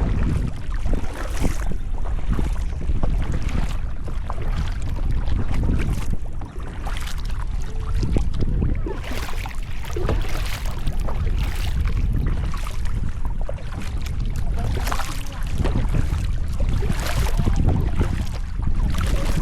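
Kayak paddle strokes splashing in the water, one every second or two, over a constant low rumble of wind on the microphone.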